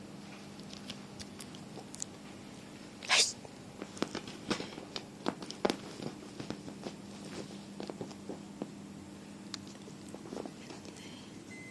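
A cat playing with a toy: one short, sharp puff of noise about three seconds in, then a scatter of light taps and clicks over a steady low hum.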